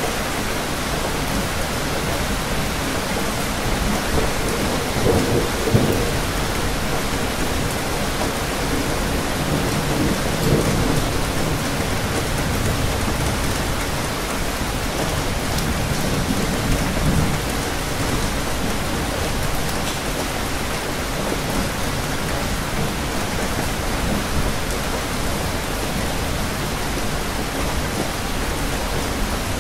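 Steady rain, a dense even hiss, with low rumbles of thunder swelling up a few times: about five seconds in, again around ten seconds, and around sixteen seconds.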